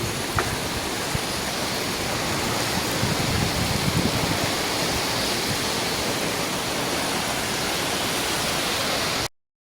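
Steady rush of strong storm wind as an EF0 tornado passes over, with low buffeting on the microphone. The sound cuts off abruptly about nine seconds in.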